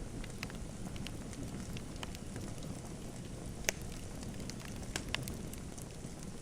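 Wood fire in a fireplace crackling: a steady low rush of flames with scattered sharp pops, one louder snap a little over halfway through and another two near the end.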